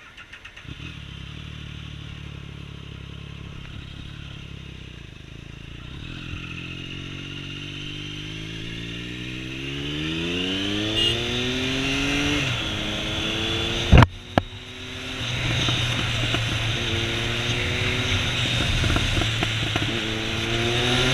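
Triumph Speed Triple R's inline three-cylinder engine idling, then accelerating away with the pitch climbing and dropping at each upshift, several times over. A single sharp loud crack cuts in about two-thirds of the way through.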